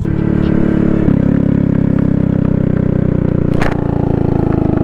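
Vehicle engine running steadily, its note shifting slightly about a second in, with one sharp click a little past halfway.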